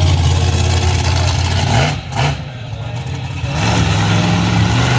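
Monster truck's engine running loud and rough. It drops off briefly about two seconds in, then picks back up as the throttle comes on again.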